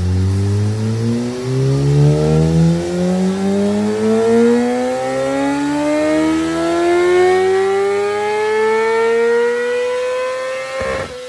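Yamaha sportbike engine at full throttle on a dyno, revs climbing steadily through one long pull for about ten seconds, then cutting off suddenly near the end.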